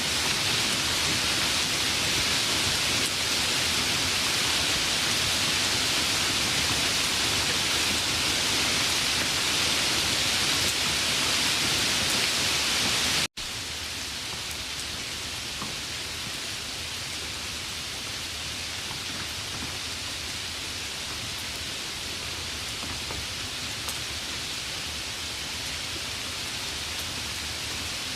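Steady, dense rainfall. Just past halfway it cuts out for an instant and comes back quieter and duller, as one rain recording gives way to another.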